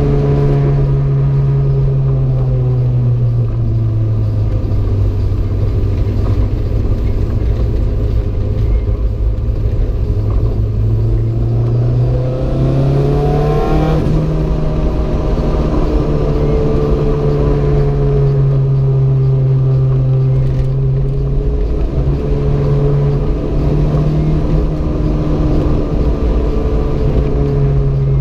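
Renault 5 GT Turbo's turbocharged four-cylinder engine running under way, its pitch sinking slowly, then climbing sharply about halfway through and holding higher for the rest.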